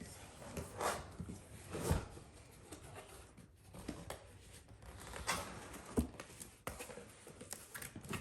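Packaging being handled during an unboxing: rustling and scraping with a few soft knocks as the coffee maker is taken out of its box.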